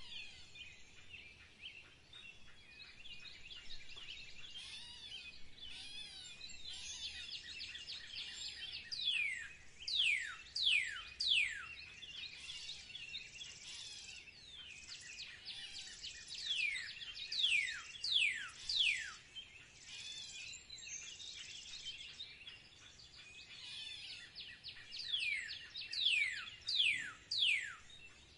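A bird calling in runs of quick, downward-sweeping whistles, three runs of several notes each, with fainter chirping in between.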